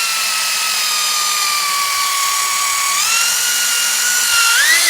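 Electric drill running under load as it bores into an old golf ball, a steady motor whine that slowly sinks in pitch, steps up about three seconds in and climbs again near the end.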